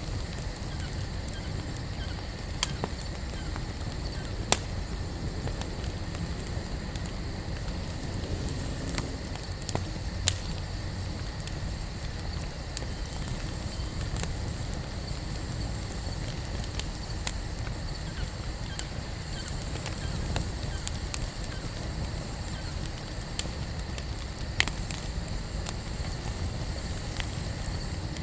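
Wood campfire burning with a steady low rumble and scattered sharp crackles and pops. The loudest pops come about 3, 4, 10 and 25 seconds in.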